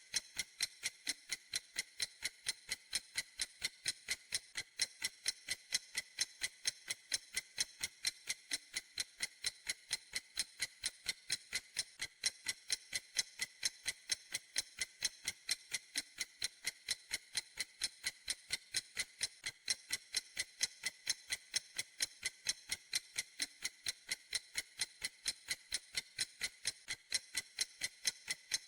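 Clock ticking steadily: sharp, high, evenly spaced ticks at several a second, with no change in pace or loudness.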